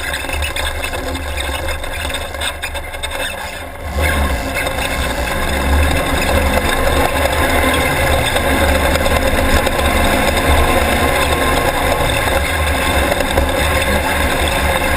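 Off-road race car's engine running steadily, with rushing noise, growing louder about four seconds in.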